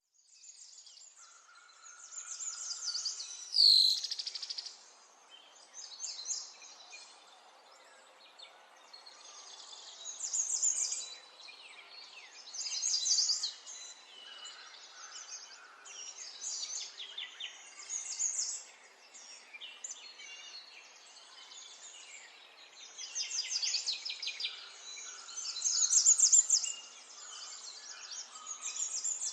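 A small songbird singing in bursts of rapid high trills and chirps, a phrase every few seconds, with one loud sharp falling whistle about four seconds in.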